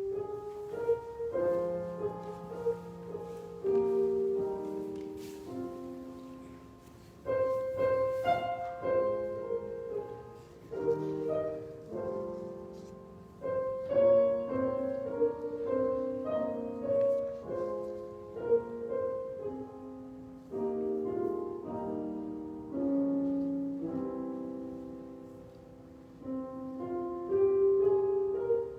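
Piano playing slow, sustained chords, each struck and left to ring and fade.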